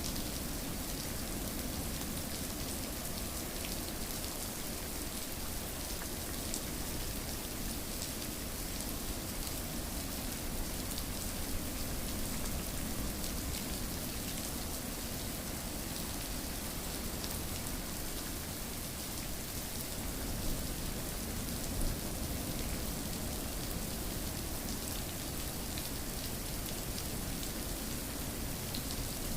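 Steady rain falling, an even hiss with many small drop ticks and an occasional louder drop.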